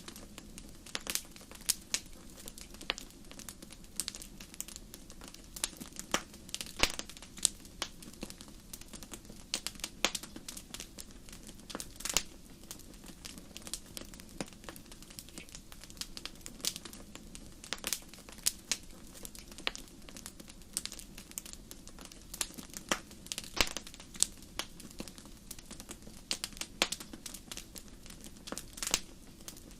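Wood fire in a fireplace crackling, with sharp irregular pops and snaps, several each second, over a steady low rumble from the flames.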